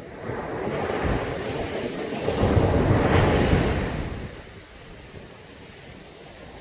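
Caribbean sea surf on a beach: one wave breaking and washing in, its rush building, loudest just past the middle, then dying away well before the end.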